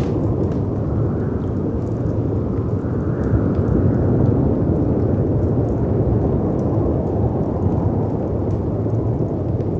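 Deep, steady rumble of storm wind and sea surf swelling gently, with faint, sparse crackles and pops from a fireplace and one sharper pop right at the start.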